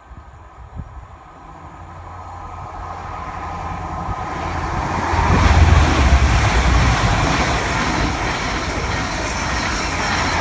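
A CrossCountry Voyager diesel multiple unit and a High Speed Train passing each other on the two tracks below, the sound growing from a distant approach to a loud rush of diesel engine rumble and wheel-on-rail noise about five seconds in, then staying loud as the trains go by.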